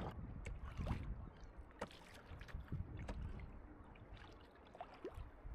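Water lapping and sloshing against a canoe, with scattered small knocks and clicks from the boat and paddle, over a low rumble of wind.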